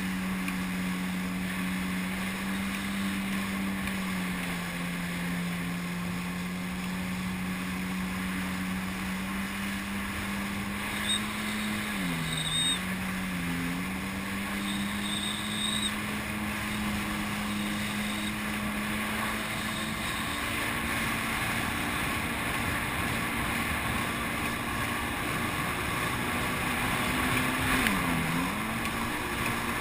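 Jet ski engine running steadily at speed over rushing wind and water noise. Its pitch dips briefly and recovers twice about twelve seconds in, and once more near the end.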